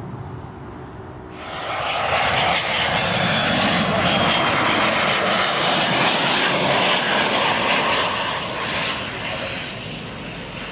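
Fixed-wing aircraft engine noise, a loud even rush that starts abruptly about a second in and fades away near the end.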